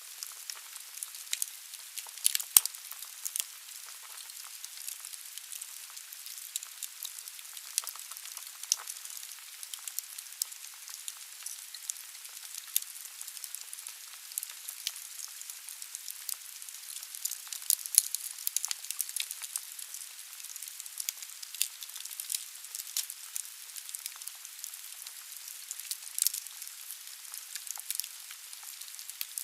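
Firewood burning in a fireplace: a steady hiss with frequent sharp crackles and pops, two of them louder, about two and a half seconds in and around the middle.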